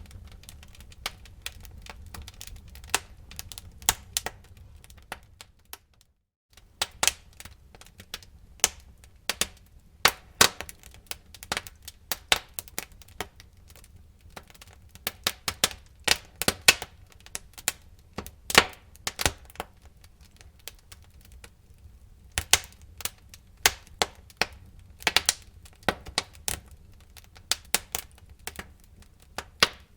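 Burning wood crackling and popping in a fireplace: dense, irregular sharp snaps over a low steady rumble of the flames. The sound cuts out completely for about half a second about six seconds in.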